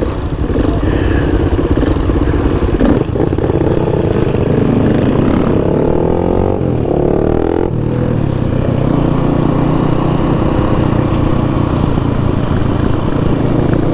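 Motorcycle engine running while riding. The engine speed rises and falls several times a few seconds in, then holds steadier.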